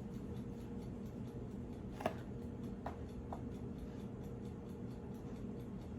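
Faint steady electrical hum from a Keurig K-Mini Plus single-serve coffee maker switched on and waiting to brew, with three light clicks about two and three seconds in.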